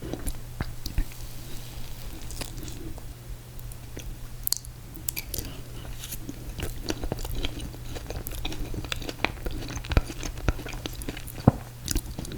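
Close-miked chewing and biting of ice cream cake, with many small wet mouth clicks and smacks scattered throughout, over a steady low hum.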